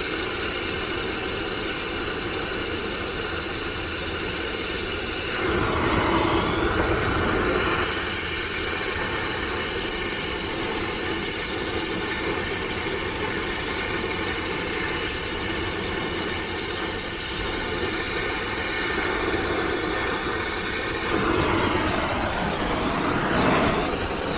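A brazing torch flame hissing steadily as a copper joint on a heat pump's reversing valve is brazed. Under it runs a steady engine-like hum. The hiss grows louder for a couple of seconds about six seconds in and again near the end.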